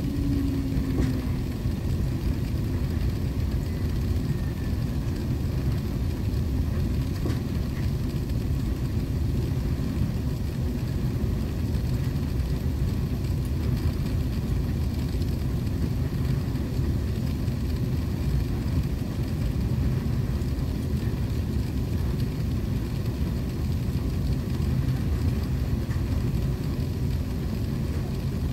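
Jet airliner cabin noise: a steady low rumble of the engines and airframe heard from inside the cabin, even in level throughout.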